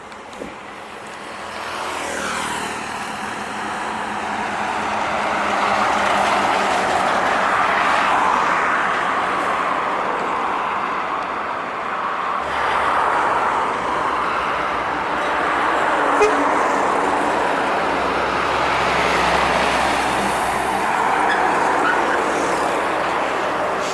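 Highway traffic with heavy trucks passing one after another: tyre and engine noise that swells and fades as each goes by.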